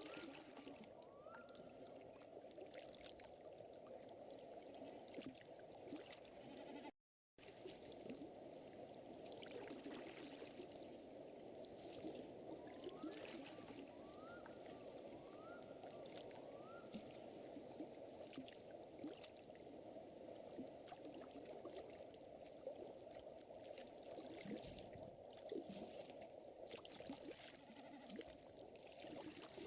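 Soft fire crackling with scattered small pops over a steady watery rush, as of a lake or stream. Twice a short run of four or five quick rising chirps from a small animal, and about seven seconds in the sound drops out completely for a moment.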